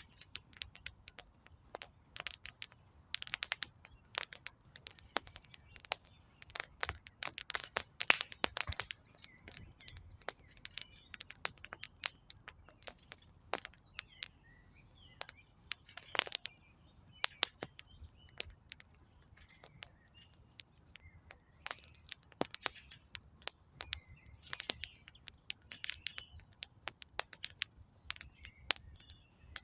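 Wood fire crackling, with sharp irregular pops and snaps throughout, and birds chirping faintly in the background.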